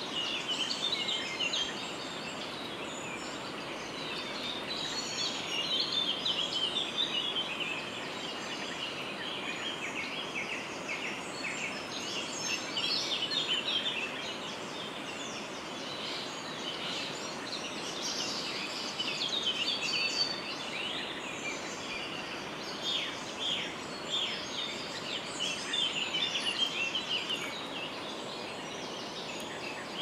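Wild birds chirping and singing in bouts every few seconds, rapid high trills over a steady background rush.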